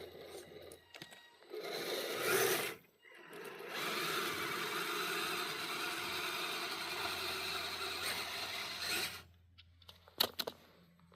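Radio-controlled scale truck's electric motor and gears running: a short burst, then a steady run of about five seconds, followed by a few sharp clicks near the end.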